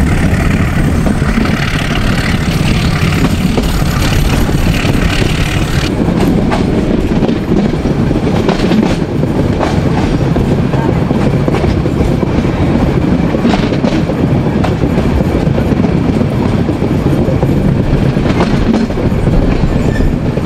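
Metre-gauge passenger train running along the track, heard loud through an open coach window: a steady rumble of wheels on rails with occasional sharp clacks.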